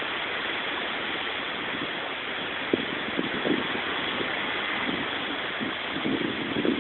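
Strong wind rushing over the camera microphone: a steady hiss with irregular low buffeting gusts, a few in the middle and more near the end.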